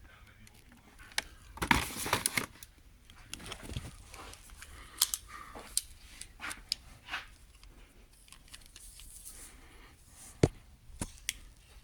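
Handling noise: intermittent rustling and crinkling with scattered clicks, busiest about two seconds in, and one sharp tap near the end.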